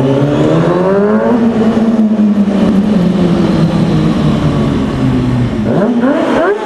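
2003 Kawasaki ZX-6R 636's inline-four engine and exhaust revving hard inside a parking structure. The pitch climbs over the first second or so and holds high for several seconds, drops about five and a half seconds in, then jumps up again in a quick rev near the end.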